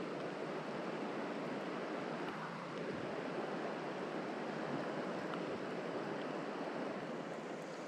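Steady rush of mountain-stream water.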